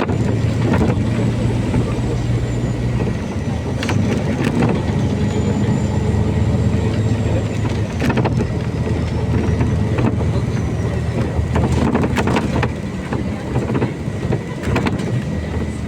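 MAZ-203 city bus heard from inside the cabin while riding: the diesel engine drones steadily, its note shifting about three seconds in, with several short knocks and rattles from the body and a faint high whine that wavers up and down.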